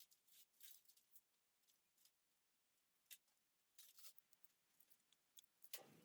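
Near silence, with faint, scattered small clicks and scrapes.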